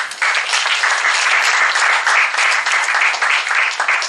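Audience applauding, many hands clapping at once. It starts abruptly and thins out to scattered claps near the end.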